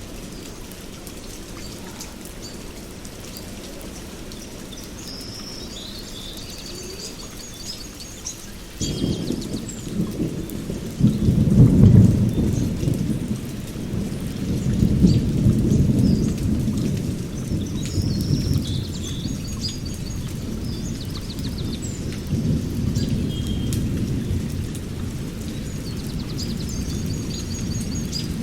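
Thunder rolling over steady rain: a deep rumble breaks in suddenly about a third of the way through, swells to its loudest a few seconds later, then rolls on and slowly eases. Birds chirp and trill above the rain several times.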